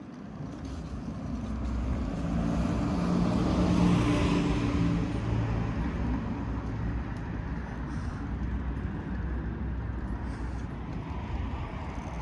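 A motor vehicle passes close by, its engine hum and tyre noise swelling to a peak about four seconds in and then fading slowly, over steady road and wind noise.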